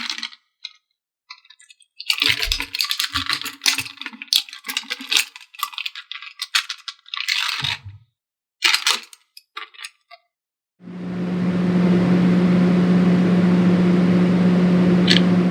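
Hard plastic toy pieces clicking, clattering and rattling as they are handled. About eleven seconds in, a loud, steady hum with a low buzz starts and keeps going.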